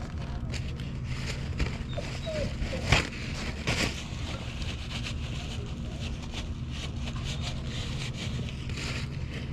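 2018 Yamaha YZ450F's single-cylinder four-stroke engine idling steadily, with two sharp knocks about three and four seconds in.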